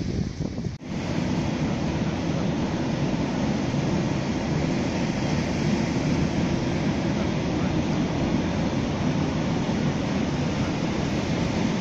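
A freight train running along the line, a steady rumble of its wagons rolling past that sets in about a second in.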